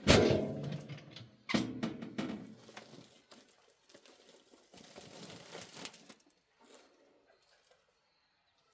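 Two loud knocks about a second and a half apart, each ringing on for a second or so, then about a second of rustling noise.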